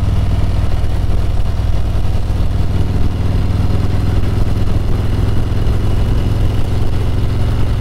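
Harley-Davidson Road Glide's V-twin engine running at a steady cruise, a constant low rumble with no shifts or revs, heard from the rider's seat.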